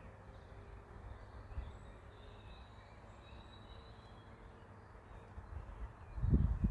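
Outdoor ambience with faint, distant bird calls over a low rumble of wind on the microphone, and a louder low thump near the end.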